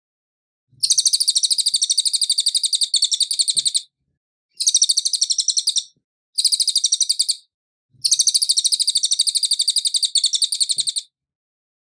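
Cililin bird singing: four bursts of very rapid, high, evenly repeated notes with short gaps between them. The last burst repeats the first.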